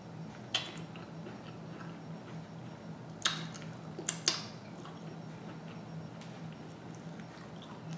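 Close-up eating sounds: soft chewing with wet lip smacks, and a few loud sucking smacks between about three and four and a half seconds in as sauce is sucked off a finger. A steady low hum lies underneath.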